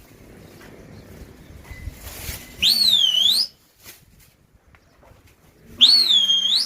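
Two long blasts on a pigeon fancier's whistle, about three seconds apart, each swooping up, down and up again in pitch. The whistle is blown to put a flock of pigeons up and keep them flying.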